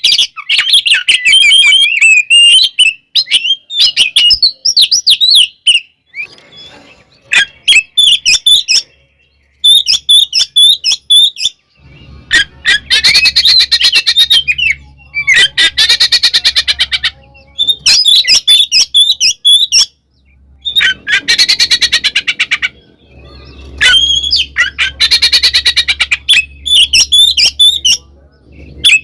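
Oriental magpie-robin (kacer) singing loud, varied whistled phrases. Through much of the middle and later part it breaks into long stretches of very fast rattling chatter (the 'ngekek'), the aggressive fighting-style song.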